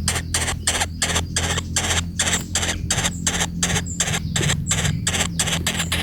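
Woodpecker nestlings in a tree-hole nest giving harsh, raspy begging calls in a steady rhythm of about four a second, over a low steady hum.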